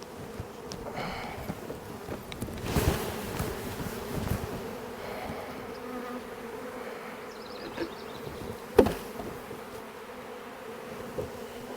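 Many honeybees buzzing in a steady drone as they are shaken off hive frames, with rustling handling noise a few seconds in and a single sharp knock near the end.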